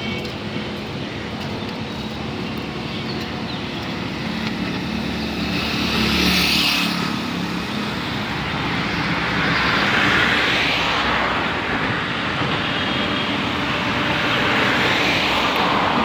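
Indian Railways train running: a steady rumble with a low hum, and a rushing noise that swells and fades three times.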